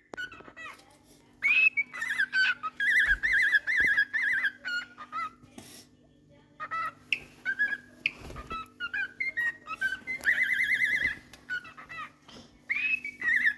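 Male cockatiel whistling its warbling courtship song to a female: runs of wavering whistled phrases with short chirps between, pausing briefly about halfway through.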